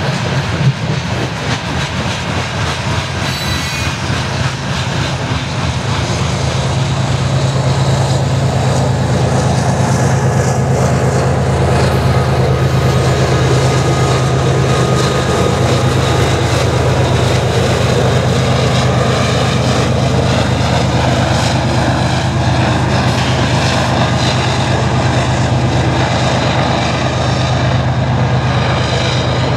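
Loaded coal hopper cars rolling past with steady wheel-on-rail noise. From about six seconds in, the low, steady drone of an approaching BNSF diesel helper locomotive grows and then holds, the engine working to haul the heavy train upgrade.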